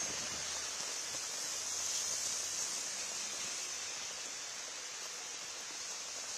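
Steady hiss of heavy rain falling, an even wash of noise with no breaks.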